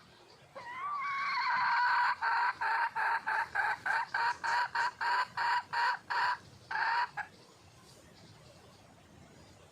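Red junglefowl hen calling, the call the title gives as a wild hen seeking a male: one long drawn-out note, then a fast run of about a dozen short clucks at roughly three a second, ending on one more drawn-out note.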